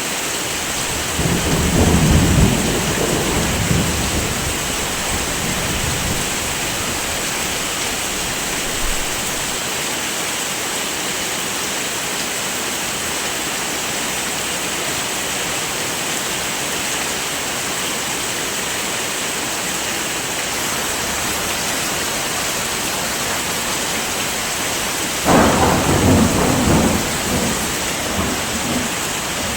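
Heavy rain falling steadily, with two low rolls of thunder: one starting about a second in and lasting a few seconds, and another near the end.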